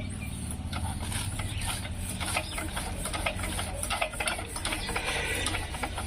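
An engine running with a steady low drone, overlaid by irregular mechanical clicks and clatter.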